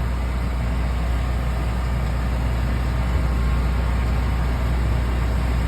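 Steady low machine hum with an even noise over it, from a motor running continuously at constant speed.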